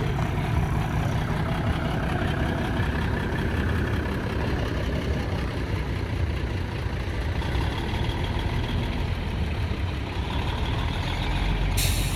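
Heavy truck engine idling with a steady low rumble. A short hiss comes near the end.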